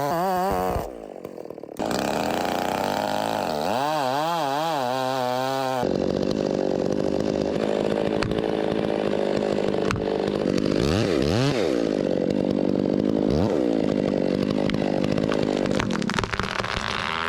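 Stihl 046 two-stroke chainsaw with a square-ground chain, revving up and down, then cutting into wood from about six seconds in, its engine pitch dipping briefly under load twice. The sound drops out for a moment about a second in.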